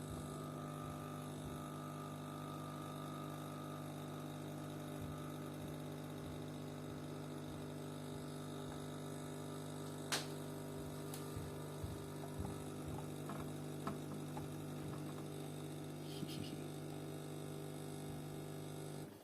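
DeLonghi bean-to-cup coffee machine's pump running with a steady hum as it pushes cold water through the coffee for a cold brew. There is a sharp click about halfway and a few light ticks after it, and the pump cuts off suddenly at the end as the brew finishes.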